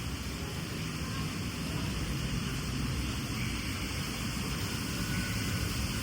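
Steady rushing noise with a low rumble: the running ambience of a boat dark ride.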